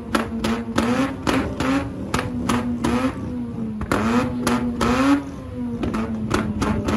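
Car engine held at high revs on a two-step launch limiter. Its note stays at one pitch while sharp bangs and pops come about four times a second.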